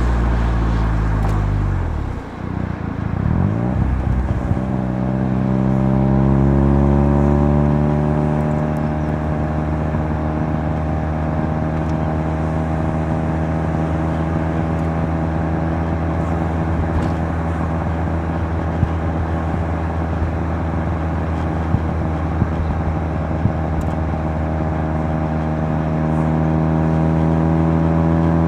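Mazda RX-7 FC3S's twin-rotor 13B rotary engine, heard through a Knight Sports Legal Sport aftermarket muffler while driving. The revs fall and dip about two seconds in, climb again under acceleration, then hold steady at cruise for most of the rest, rising slightly near the end.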